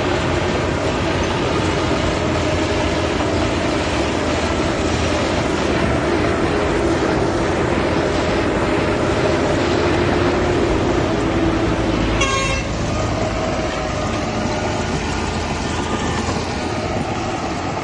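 Diesel engines of heavy earthmoving machinery running steadily, loud and constant. A short horn toot comes about twelve seconds in.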